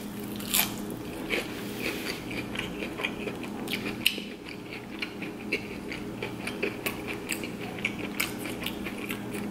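Close-up chewing of crispy battered fried shrimp: a run of small crunches and wet mouth clicks, over a steady low hum.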